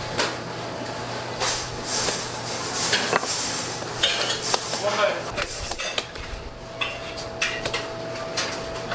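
Irregular knocks and clinks of bakery kitchen work, a few sharp strikes at a time with no regular beat; a steady tone comes in about six seconds in.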